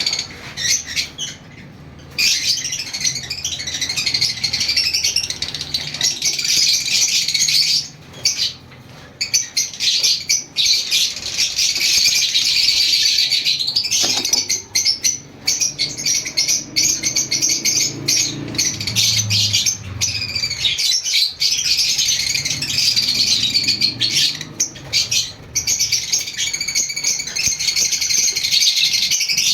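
Lovebirds chattering in a continuous stream of rapid, high-pitched chirps, with a few short pauses.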